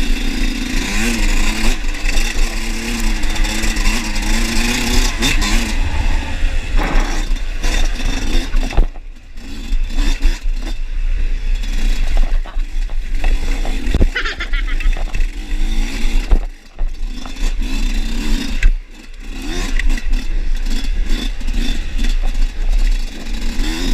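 Dirt bike engine running under load on a trail, its pitch rising and falling with the throttle and dropping off briefly three times, with rattling and wind noise over it.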